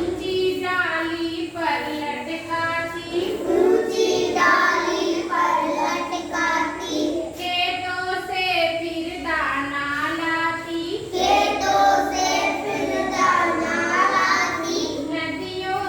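A child's voice singing a Hindi children's poem in short sung phrases with brief pauses between them.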